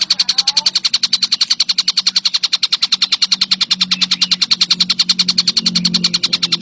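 Tengkek buto kingfisher chattering in a rapid, even trill of about ten high notes a second, held without a break, over a low steady hum.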